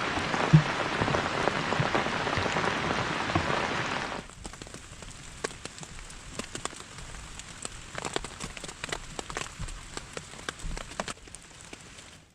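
Heavy rain falling in a dense, steady hiss. About four seconds in it cuts suddenly to quieter, lighter rain, with individual drops tapping sharply and irregularly.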